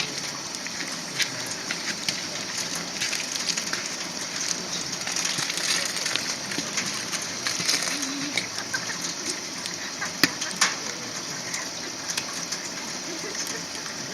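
Wood fire crackling with frequent small pops and a few sharper snaps, the sharpest about ten seconds in.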